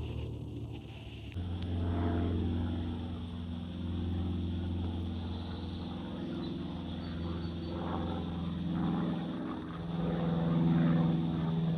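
Aircraft engine drone, steady and low-pitched with a strong hum. It changes abruptly just over a second in, and its pitch drops slightly near the end.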